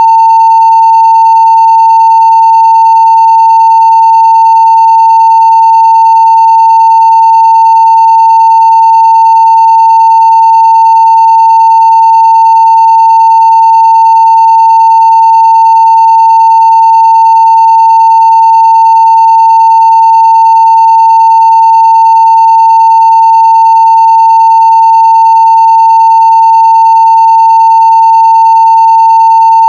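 Steady 900 Hz sine-wave test tone at full scale (0 dB), loud and unbroken, with faint higher overtones.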